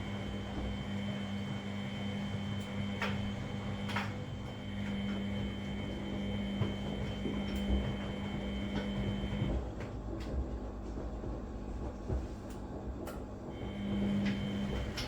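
Front-loading washing machine in its wash cycle: the drum motor runs with a steady hum and a high whine, along with the low rumble of the tumbling load and a few sharp clicks. The motor stops a little under ten seconds in and starts again near the end, the pause of the drum reversing direction.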